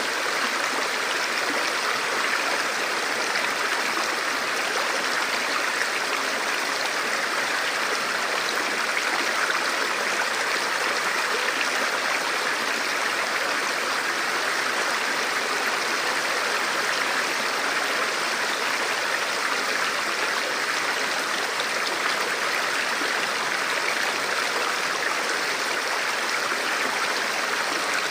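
Forest river flowing over rocks: a steady, unbroken rush of water.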